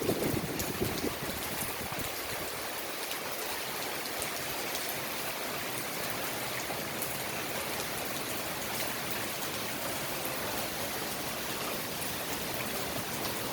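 Steady hiss of heavy rain in a storm, with faint scattered ticks of drops. A low gust of wind buffeting the microphone dies away in about the first second.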